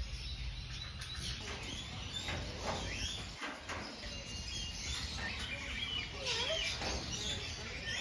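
Faint, scattered chirps and short whistled calls from caged birds, some gliding up and down in pitch, over a low background rumble.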